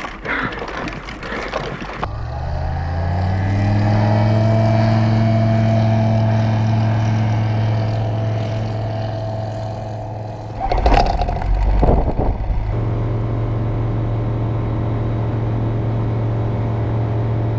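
Bush plane's piston engine rising to full power and then holding a steady drone, as for a takeoff run. A few knocks and a low rumble come about eleven to twelve seconds in.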